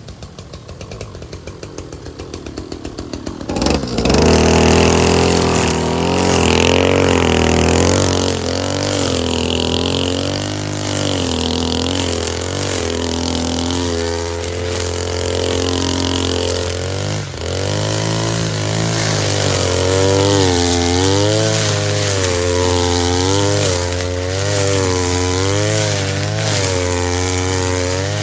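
Small petrol engine of a grass cutter, pulsing at low speed and then opening up to full throttle about four seconds in. Its pitch wavers up and down as it cuts through grass.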